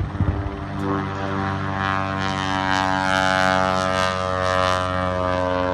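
A propeller aircraft's engine droning steadily as it passes, holding an even pitch.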